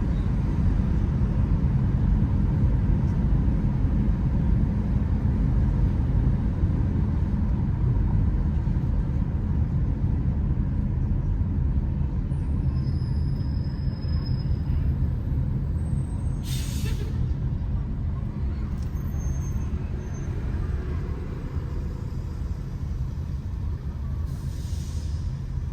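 Steady low road and engine rumble of a car driving through city traffic, with two short hisses, one about two-thirds of the way through and one near the end.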